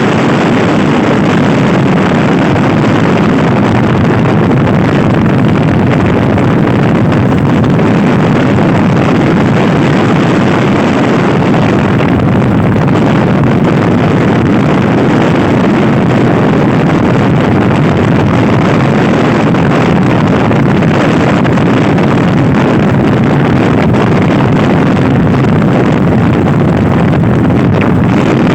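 Heavy, steady wind rush on the microphone of a fast-moving Honda Scoopy i scooter, with the ride's road and engine noise buried under it.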